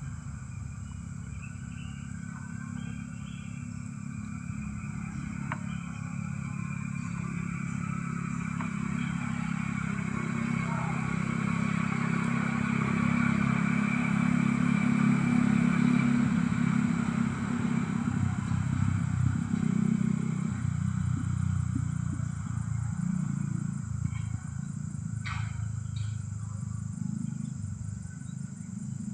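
A motor vehicle's engine running, growing louder toward the middle and then fading away.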